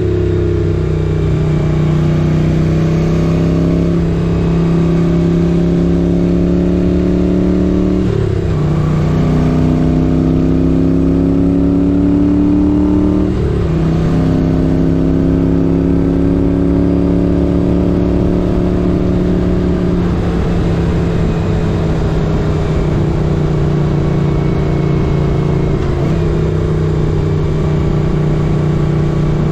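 1978 Moto Guzzi 850 Le Mans's air-cooled V-twin running under way, its note drifting slowly up and down. It breaks briefly about every four to six seconds and picks up again at a new pitch.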